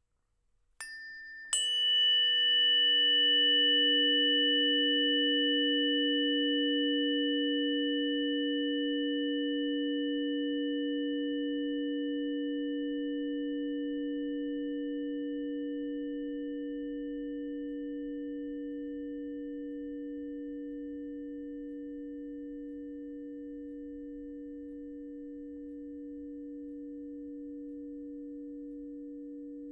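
Two singing bowls struck about a second apart, a lower and a higher note. Each rings out in a nearly pure, long, slowly fading tone, and their brighter overtones die away first.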